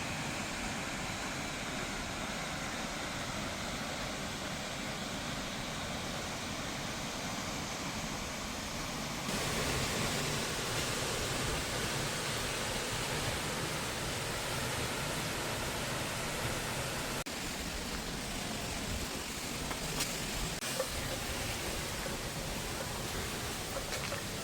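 Waterfall's steady rush of falling water, a continuous even hiss across all pitches. It steps louder about nine seconds in and changes again about seventeen seconds in.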